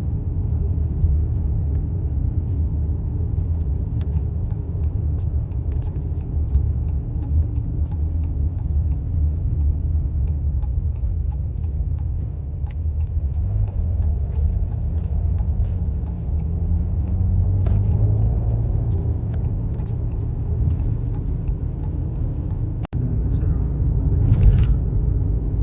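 Steady low road rumble of a car being driven, heard from inside the cabin, with scattered faint small clicks and rattles. The sound cuts out for an instant near the end.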